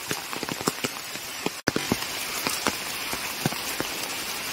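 Heavy monsoon rain falling steadily, with many separate drops ticking close to the microphone.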